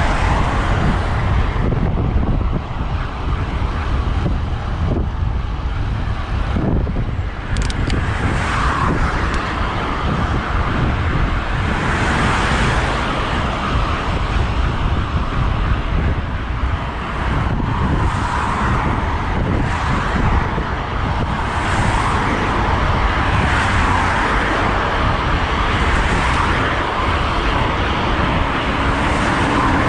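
Steady wind and road noise from a moving bicycle. Passing road traffic swells in and fades several times.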